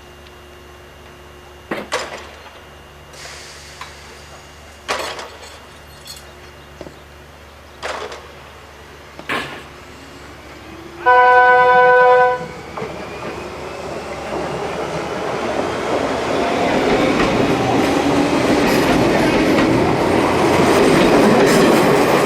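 An electric train sounds one steady horn blast lasting about a second and a half, then its running noise on the rails builds steadily as it approaches and grows loud near the end. A few sharp clicks come before the horn.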